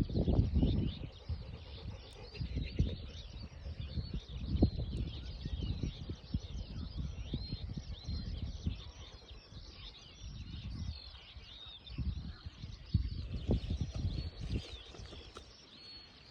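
Many small birds chirping and twittering steadily, over irregular low thumps and rumble.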